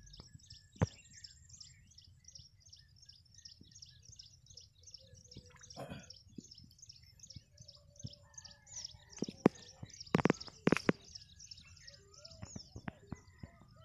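A bird chirping in a fast, even series, about four high chirps a second, with other warbling calls near the end. Several sharp splashes about two-thirds of the way in, from hands and feet working in shallow muddy water.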